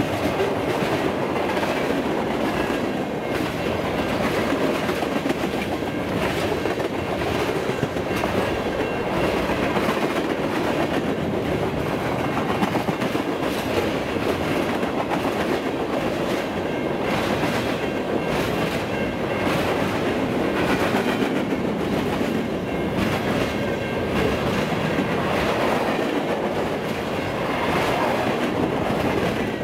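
Freight cars of a long mixed freight train rolling past: a steady rumble of steel wheels on rail, with repeated wheel clicks over rail joints.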